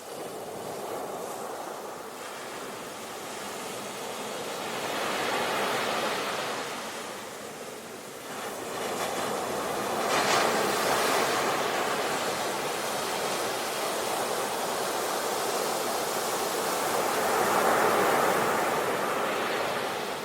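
Sea waves surging and washing on a shore in slow swells, one breaking sharply about halfway through and another cresting near the end.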